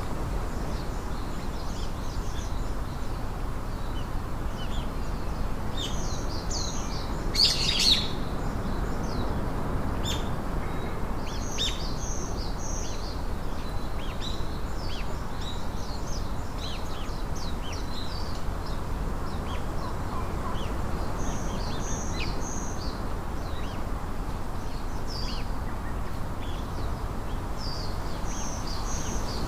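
Birds chirping: many short, high calls scattered throughout, with one louder, closer burst of calls about seven to eight seconds in, over a steady low background hiss.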